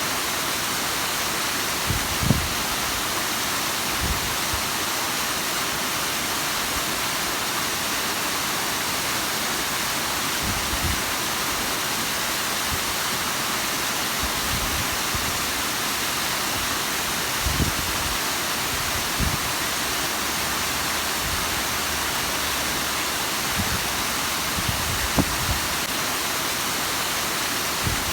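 Bigăr waterfall: water falling and splashing in a steady, hissing rush, with a few short low thumps here and there.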